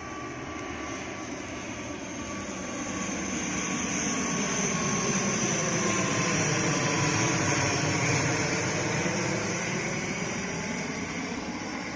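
Airplane on approach to land passing overhead: steady engine noise with a high whine, growing louder to a peak about two-thirds of the way through and then easing off as it goes by.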